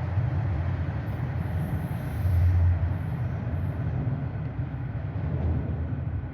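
A TTC rail transit train running on its tracks: a steady low rumble that swells louder for a moment about two and a half seconds in.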